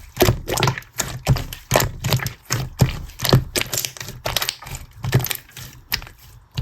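A quick run of sharp clicks and taps, about two or three a second, each with a dull knock beneath it.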